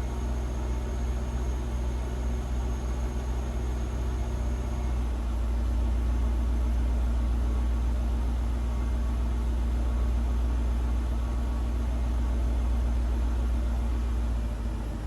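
2008 Mercedes-Benz CL550's 5.5-litre V8 idling steadily after a cold start, a low, even rumble. About five seconds in, the idle note shifts slightly and a faint high whine stops.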